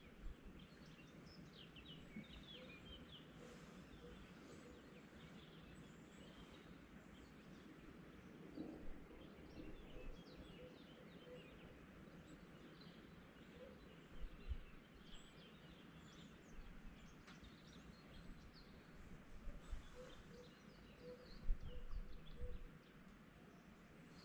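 Faint dawn chorus: many small birds chirping and singing in the distance over a steady low background hum, with a few brief low rumbles.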